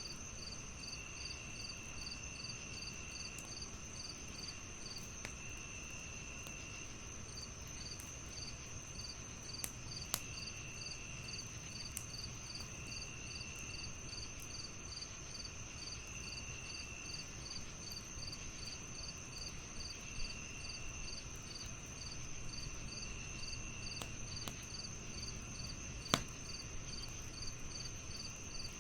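Crickets chirping in layers: a steady high trill, a quick pulsed chirp of about three to four a second, and a lower trill that comes in spells of a second or two. A few sharp pops of a wood fire sound over a soft crackling hiss, the loudest near the end.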